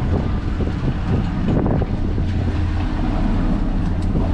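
Fishing boat's engine running steadily with a low hum, with a few light knocks and rattles in between.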